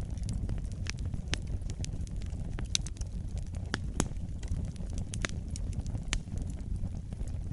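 Wood fire burning in a fireplace: a steady low rumble of flames under irregular sharp crackles and pops, several a second, with a few louder pops near the middle.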